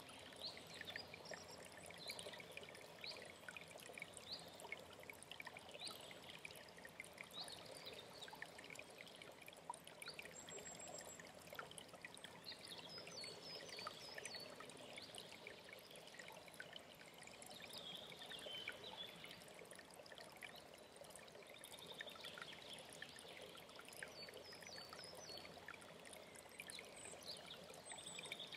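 Faint, steady trickle and gurgle of a mountain stream, with songbirds chirping and singing at intervals over it.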